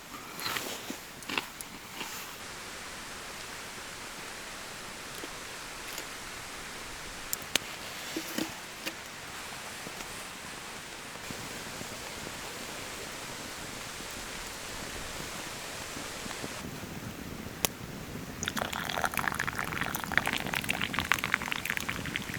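Steady rain hiss with a few sharp clicks and ticks. Near the end a denser, crackling patter sets in.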